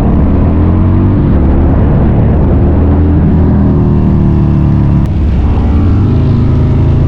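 Harley-Davidson V-twin with a Thumper Moto aftermarket exhaust running at riding speed, its note rising and falling. About five seconds in there is a brief click and the pitch drops, then it runs steady.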